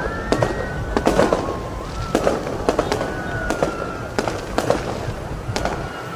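Aerial fireworks going off: irregular sharp bangs and crackles, several a second, over a steady low rumble, with a few long whistling tones drawn out between the bursts.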